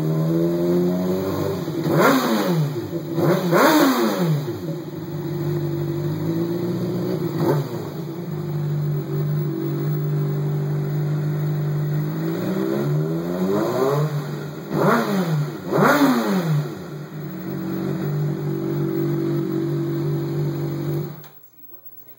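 2012 Honda CBR600RR's inline-four engine through a Hyperflo exhaust with its sound-reducing cores in, idling steadily and revved in a series of quick throttle blips to about 8,000–9,000 rpm, each rising and falling sharply; fairly loud. The engine sound cuts off suddenly near the end.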